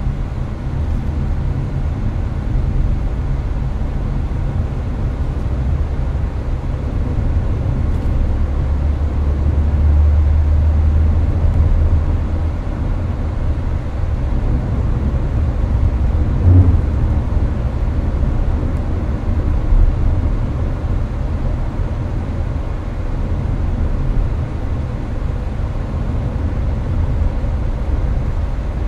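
Inside a Hyundai Avante cruising on the highway: a steady low road and tyre rumble with air-conditioning fan noise mixed in. Two brief bumps stand out, about 16 and 20 seconds in.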